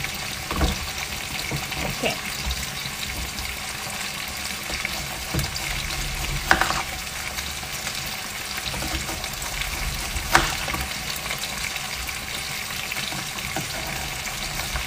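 Beef frying in sambal in a pan of hot oil, a steady sizzle, with a few scattered knocks and clicks, the clearest about six and a half and ten seconds in.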